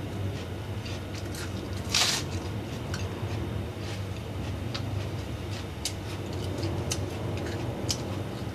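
Close-up eating sounds: chewing and mouth noises, with one sharp crunchy bite about two seconds in and scattered small clicks, over a steady low hum.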